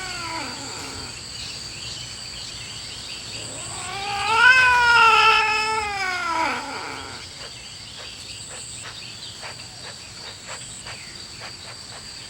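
Cats yowling in a territorial confrontation. An earlier yowl trails off at the start, then a long drawn-out yowl rises and falls in pitch about four seconds in, the loudest sound here. Faint ticks follow in the second half.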